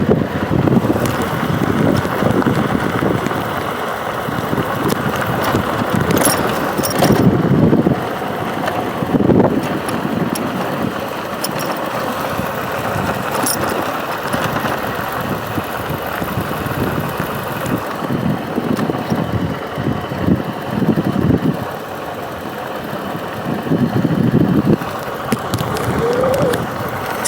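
Steady vehicle and road noise while riding, with wind buffeting the microphone in gusts every few seconds.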